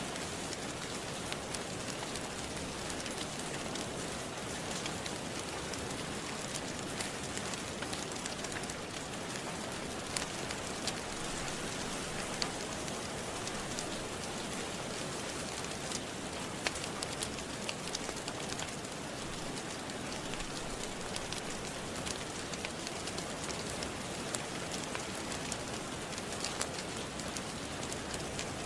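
Steady rain falling, with scattered sharp pops and crackles of a wood fire through it.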